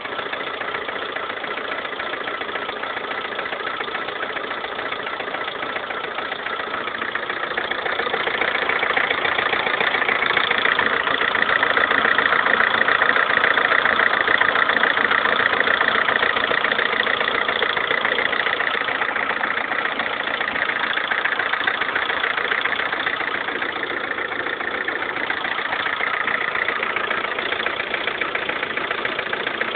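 Lada Kalina's 1.4-litre 16-valve four-cylinder engine running with a heavy knock, rattling "like a tractor"; the sound swells louder about a third of the way in and eases off again. The knock was cured by fitting a connecting-rod and piston set of a different size group, which points to a piston and connecting-rod fault.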